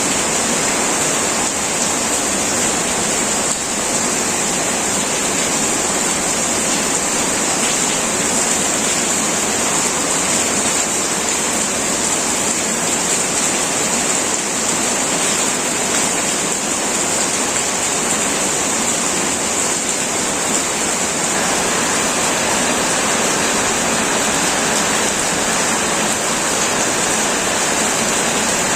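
Heavy rain drumming steadily on a tin roof, a dense even hiss without pause.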